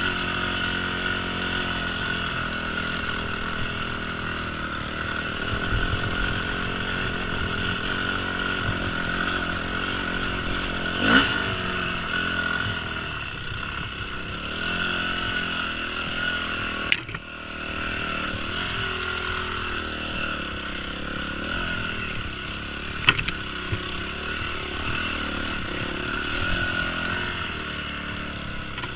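Yamaha YZ250F dirt bike's four-stroke single-cylinder engine running as it is ridden, its note rising and falling with the throttle. A few sharp knocks cut through, the loudest about eleven seconds in.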